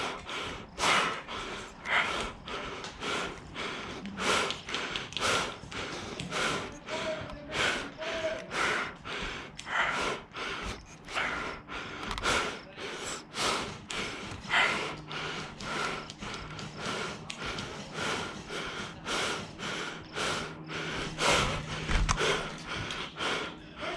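Heavy, fast breathing close to the microphone, short hard breaths in and out at about two a second. A faint steady low hum joins about halfway through.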